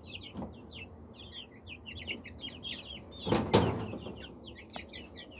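A brood of baby chicks peeping continuously, many quick high peeps overlapping. About three and a half seconds in there is a brief, louder rustling noise.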